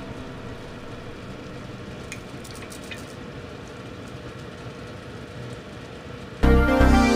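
Soft steady sizzling from a pot of ground meat and tomato sauce, with a few faint squelches about two to three seconds in as ketchup is squeezed from a plastic bottle. Background music comes in loudly near the end.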